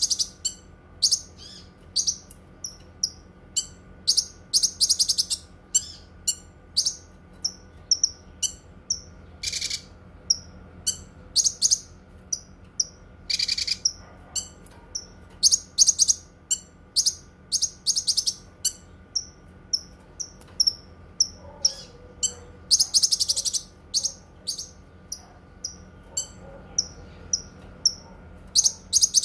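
Cucak kinoi songbird singing: a fast string of short, high chirps, a couple a second, broken by several longer trilling phrases.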